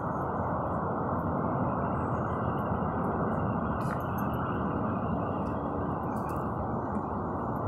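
Semi truck running, a steady rumble of engine and road noise with a faint low hum.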